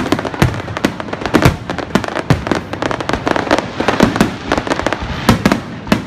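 Fireworks going off in a rapid, irregular string of sharp bangs, several a second, over a continuous crackling haze.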